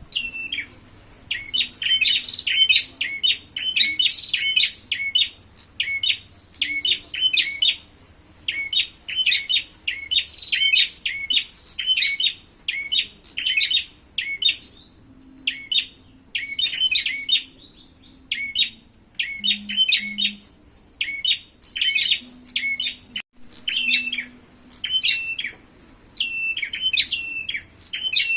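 Prenjak (prinia) calling in the excited, rapid 'fighting' manner: quick runs of sharp, high chirps repeated over and over, with only brief pauses between bursts.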